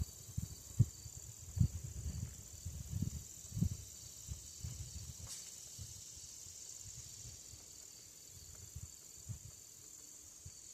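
Faint, irregular low knocks and bumps from hands working on a chainsaw, mostly in the first few seconds, over a steady high-pitched chirring.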